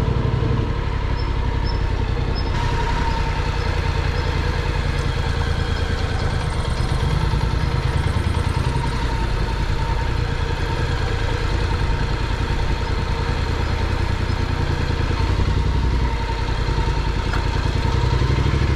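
Honda NC750X motorcycle's parallel-twin engine running steadily at low revs, its even low firing pulses unbroken throughout.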